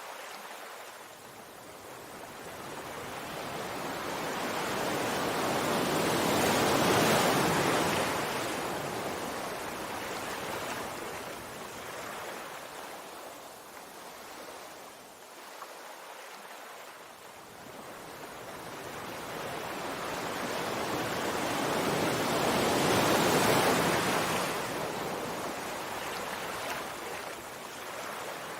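Sea waves surging and washing ashore, swelling to a peak and falling away twice, about sixteen seconds apart.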